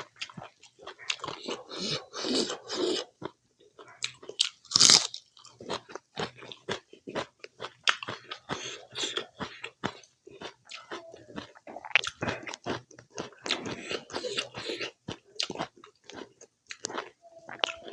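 Close-up eating sounds: chewing and biting with many short crunches and wet mouth clicks, the loudest crunch about five seconds in.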